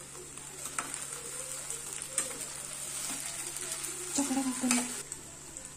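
Diced potatoes and onions sizzling in oil in a kadai while a metal slotted spoon stirs them, with a few louder scrapes of the spoon against the pan.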